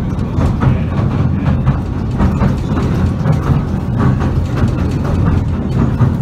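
Southend Pier Train carriage running along the pier track, heard from inside: a steady low rumble with irregular rattles and clicks.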